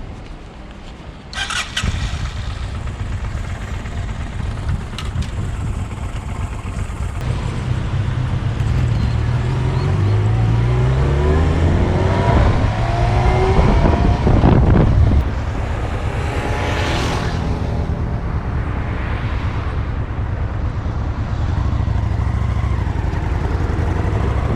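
Motorcycle engine running as the bike pulls away, its pitch rising in steps as it accelerates through the gears, loudest about fifteen seconds in, then settling to steady cruising.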